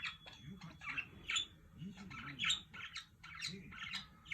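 Pet budgerigars chirping and squawking in short, scratchy calls, several a second, as they squabble at play.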